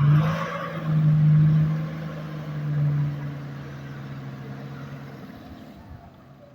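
A 4WD's engine held at high revs as the vehicle labours through soft beach sand. It is loudest in the first few seconds, then fades steadily as the vehicle moves off.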